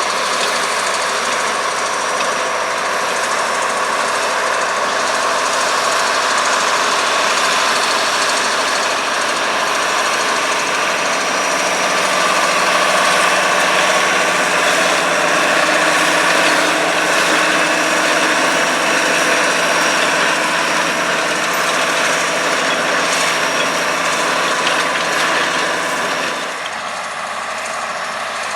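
International Harvester 1256 Turbo tractor's turbocharged six-cylinder diesel running steadily, pulling a 430 small square baler at work in wheat straw. The sound gets somewhat quieter near the end.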